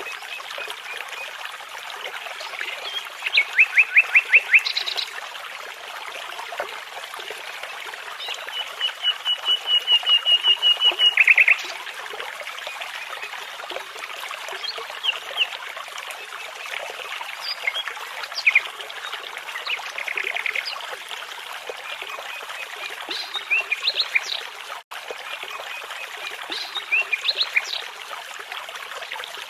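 Nightingales and other songbirds singing over the steady rush of a babbling brook. Phrases of rapidly repeated notes come through, the loudest a long even trill about eight seconds in, followed by scattered short calls.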